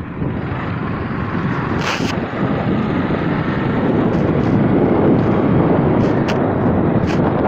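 Wind rushing over the microphone and the engine and road noise of a moving motorcycle, steady and growing a little louder midway, with a few brief clicks.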